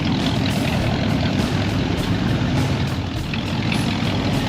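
Steady low rumble of vehicle engines idling.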